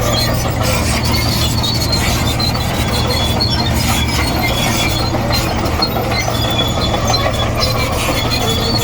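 Komatsu D58E crawler bulldozer running steadily, its diesel engine under load, with the steel tracks squealing as it moves.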